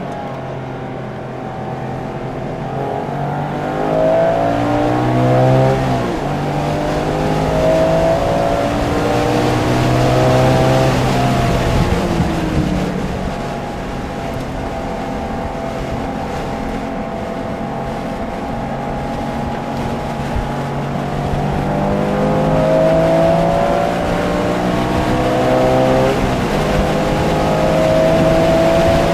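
Porsche engine at full throttle on a race track, revving up through the gears. It drops sharply on upshifts about 6 and 12 seconds in and again near the end, with a steadier stretch in the middle.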